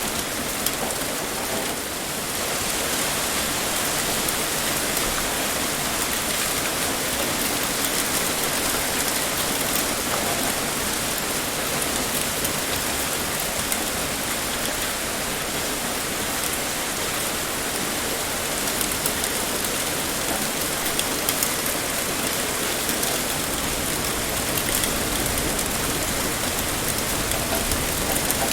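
Heavy rain pouring steadily, a dense even hiss of drops striking a surface.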